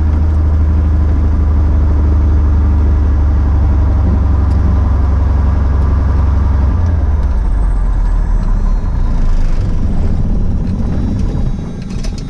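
Cessna 170B's six-cylinder Continental engine running steadily on the ground. Its low drone changes about seven seconds in, then the sound dies away near the end as the engine is shut down.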